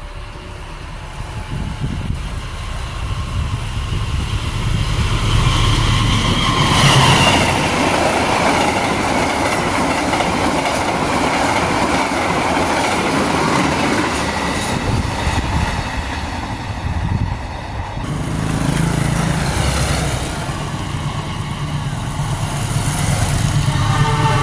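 Diesel-hauled long-distance passenger train passing close by at speed, wheels clattering over the rails, swelling as it nears. A train horn starts sounding just at the end.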